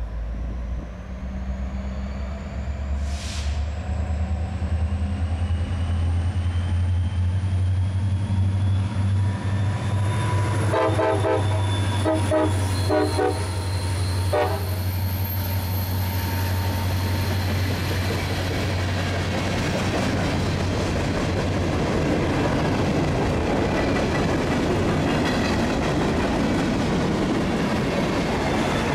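EMD GP40-2 diesel locomotive running as it approaches, a steady low engine note with a high whine rising slowly in pitch. About a third of the way in its horn sounds in a string of short blasts, then once more briefly. Later the freight cars roll past with steady wheel-on-rail noise.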